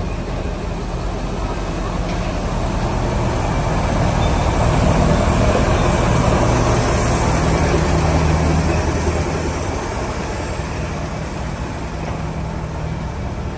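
Heavy diesel engine running with a low hum, growing louder over the first few seconds, loudest around the middle, then easing off.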